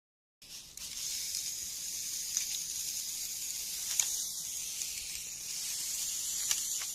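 A steady high-pitched hiss with a few faint clicks.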